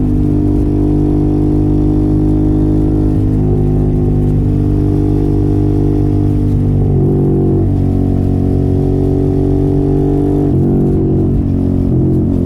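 Sport motorcycle engine with an aftermarket exhaust, running loud and steady under way. Its note holds a fairly even pitch and shifts slightly a few times, about three and a half, seven and ten and a half seconds in.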